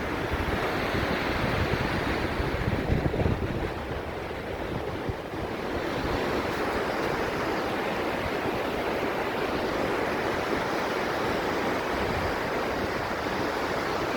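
Ocean surf washing steadily, with wind gusting on the microphone as a low rumble in the first few seconds.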